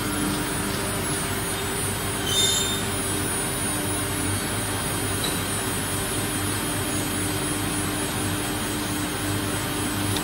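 CNC wood router at work: a steady machine noise with a constant whine from the spindle, and a brief louder, higher squeal about two seconds in.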